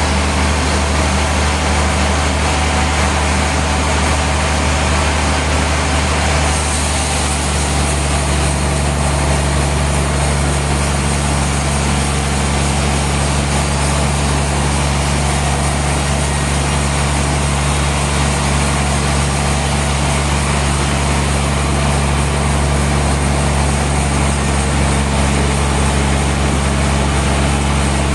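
Heavy engine-driven sawmill machinery running steadily: a low engine hum under a broad hiss, with a higher hiss joining about six seconds in.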